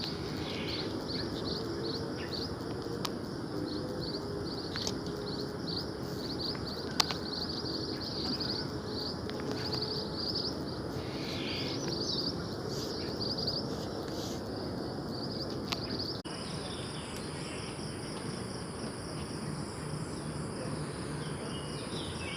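Small birds chirping in quick repeated notes over a steady high-pitched insect drone. The background changes abruptly about sixteen seconds in, and the chirping thins out after that.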